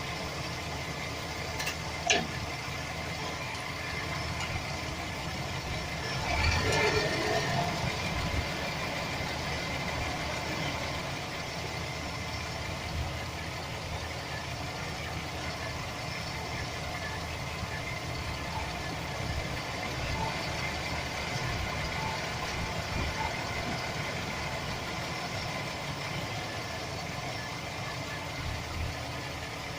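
Chevy Express van's 4.3 L V6 engine idling with a rattle, which the owner puts down to a bad starter motor gear bumping against the flexplate. A sharp click comes about two seconds in, and the sound grows louder for a while around six to eight seconds in.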